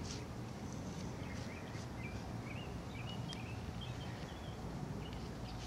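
Steady low background rumble with a small bird chirping a string of short, quick notes through the middle.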